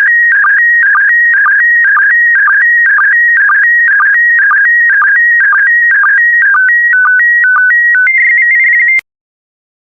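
Slow-scan TV (SSTV) signal in PD120 mode: loud warbling electronic tones, each scan line pair marked by a short low sync beep, repeating about twice a second. Near the end the pattern gives way to a few longer stepped tones, then the signal stops abruptly about nine seconds in, as the image transmission ends.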